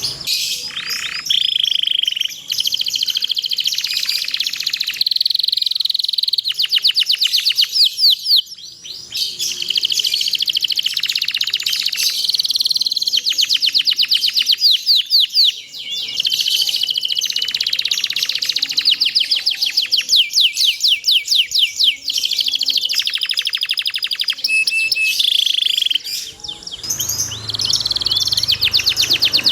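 Domestic canary singing continuously: long rolling trills of rapid repeated notes alternating with held whistled tones, broken only by brief pauses.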